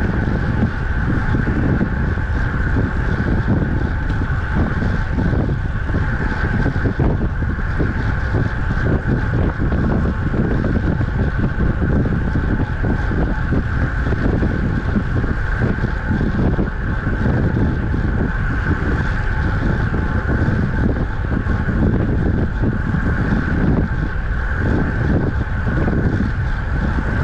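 Wind rushing and buffeting over the microphone of a camera riding on a road bike at speed: a loud, steady rushing noise that never lets up.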